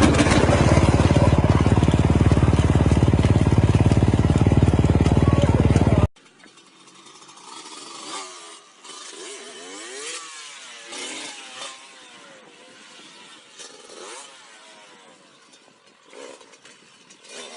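A motorcycle engine running loud and close, with a rapid, even firing pulse. About six seconds in it cuts off suddenly, leaving only faint, scattered sounds with a few gliding tones.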